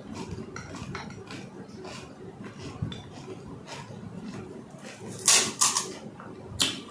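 Close-miked eating of panipuri: puri shells crunching and mouth sounds in quick small clicks. Near the end there are a few louder sharp clinks of dishes, the loudest about five seconds in.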